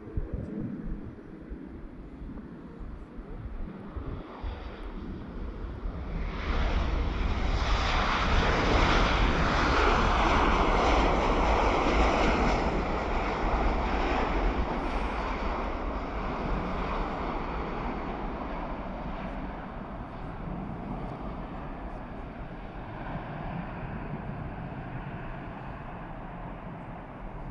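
Airbus A350-900 jet airliner with Rolls-Royce Trent XWB turbofans going past on its landing approach. The jet noise swells about six seconds in, is loudest for several seconds, then fades slowly.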